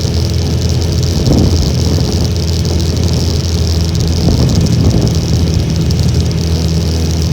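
Honda Little Cub's small single-cylinder four-stroke engine running at a steady pace while riding, with wind buffeting the microphone in gusts about a second in and again around four seconds in.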